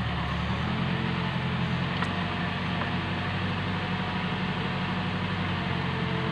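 A truck engine running steadily at an even speed.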